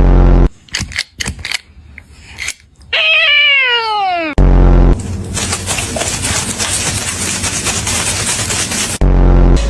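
A cat gives one long meow that falls in pitch, about three seconds in. Short loud low bursts come at the start, midway and near the end, and a few sharp clicks sound about a second in. Several seconds of steady noisy hiss follow the meow.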